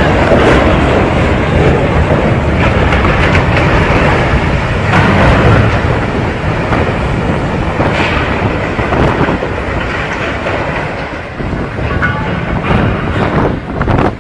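Loud, continuous rumbling and grinding with irregular knocks and clatter, dipping briefly about eleven seconds in, typical of a ship's hull scraping along a quay.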